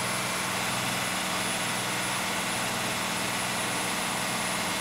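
A Navistar International DTA360 turbo-diesel inline-six in a 1993 Blue Bird school bus, running steadily under load as the bus climbs a hill, heard from inside the bus.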